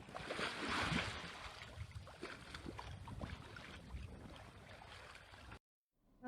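Storm noise: a steady rush of falling rain and hail with many scattered small ticks of hailstones striking, loudest about a second in, then cutting off abruptly near the end.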